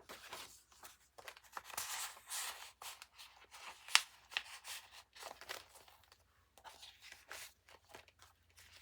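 Paper rustling and crinkling as the pages, tags and paper ephemera of a handmade journal are handled, in short irregular bursts, with one sharp tap about four seconds in.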